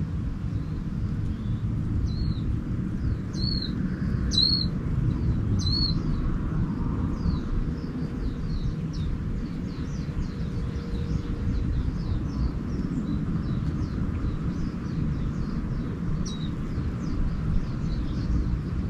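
Small songbirds calling. There are four separate high chirps in the first six seconds, then a long run of quick, high, falling notes, and one more chirp near the end. A steady low rumble runs underneath.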